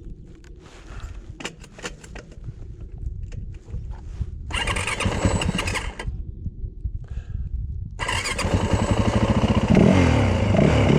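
Yamaha dirt bike engine being started. It fires briefly about halfway through and drops back after a second or so, then catches and keeps running, revving up and down near the end. A few light clicks come before it.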